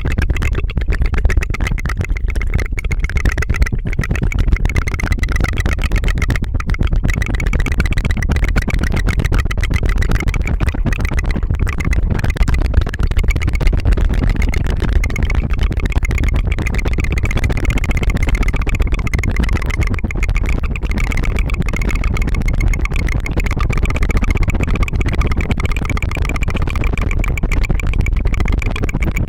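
Close-miked tongue fluttering for ASMR: a fast, unbroken stream of tongue flaps against the mouth, making a steady rattling buzz.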